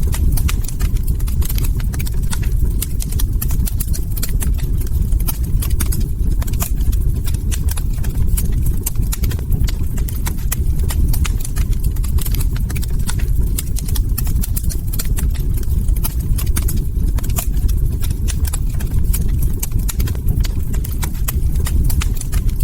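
Log fire crackling: many sharp, irregular pops and snaps over a steady low rumble of the burning wood.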